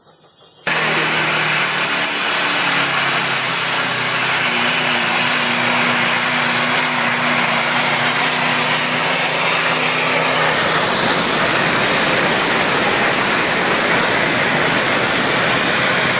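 Pulling tractor's engine running at full power under load, very loud, with a steady pitched drone under a rushing noise. It starts abruptly, and after about ten seconds the drone gives way to the rushing noise alone.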